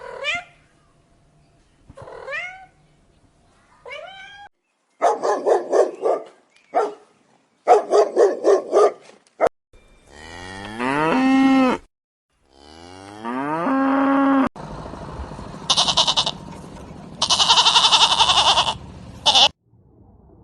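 A sequence of animal calls: three short rising cat meows, then a dog barking in quick runs, then two long low cow moos, then goat bleating.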